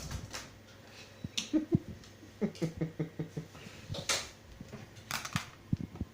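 Scattered light knocks and clicks: a small stick tapping and clattering on a hard floor during a game of fetch with a cat.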